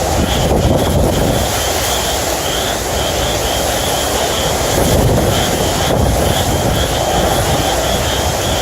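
Hurricane-force wind from the eyewall, gusting around 65–75 mph, blowing loudly and steadily and buffeting the microphone, with slow surges of gusts.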